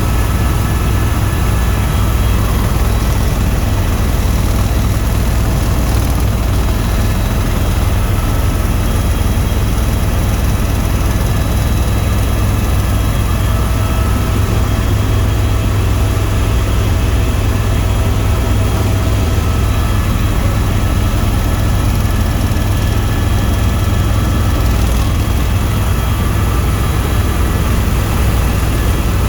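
Helicopter in flight: a steady, loud drone of engine and rotor, strongest at the low end, with faint steady whining tones above it.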